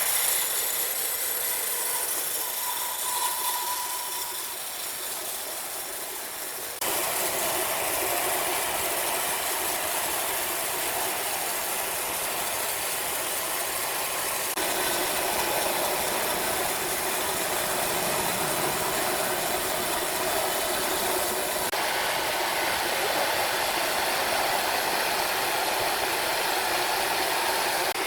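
Heavy machinery running steadily with a rough, unpitched mechanical noise. It jumps louder abruptly about seven seconds in and changes character again twice later on.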